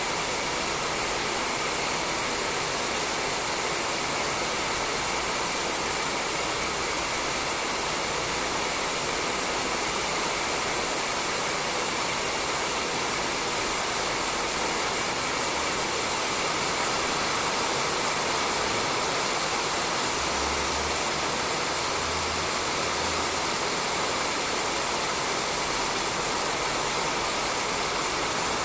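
Steady rain falling on a roof, a dense even hiss of drops with no breaks.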